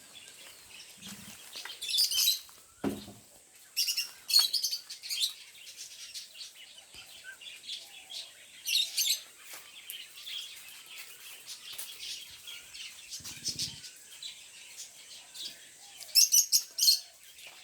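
Birds chirping in short repeated bursts of high notes, loudest in a quick cluster near the end, with a few brief low sounds in between.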